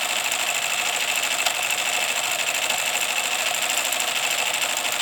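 MSS kit-built live-steam side tank locomotive running in reverse: a rapid, even beat from its cylinders with a steady hiss of steam. It runs a little stiff because its pistons have not yet been run in.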